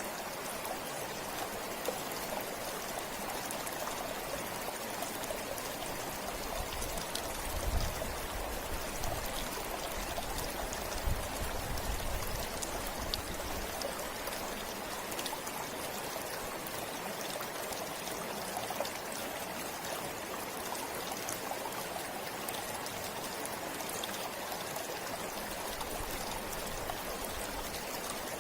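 River water flowing in a steady, even rush, with a couple of brief low bumps about 8 and 11 seconds in.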